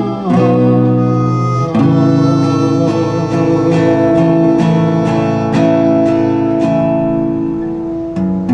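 Instrumental passage of an acoustic folk song: acoustic guitar strummed in a steady rhythm under held melody notes that may come from a harmonica.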